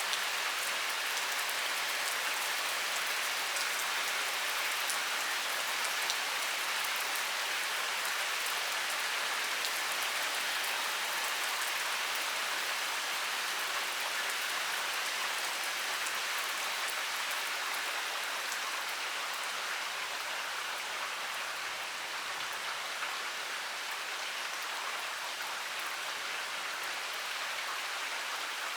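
Heavy rain pouring down steadily, a dense even hiss with scattered individual drop ticks.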